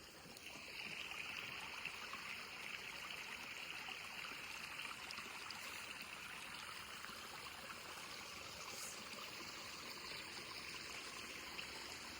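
A small woodland stream running steadily, a soft even rush of water that grows a little louder about half a second in.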